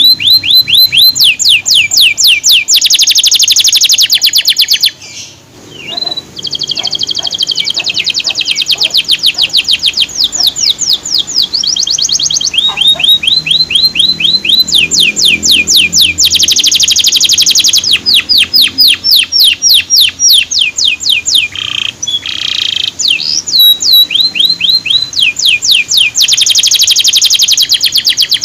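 Male canary singing: long fast trills of evenly repeated, sharply falling high notes, alternating with buzzy rolls. There is a short break about five seconds in.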